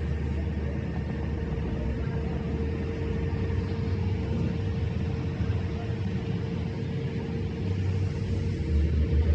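A running engine: a steady low rumble with a constant hum, growing louder near the end.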